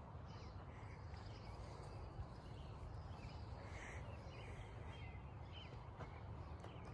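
Faint bird calls, a scatter of short chirps, over a steady low background rumble.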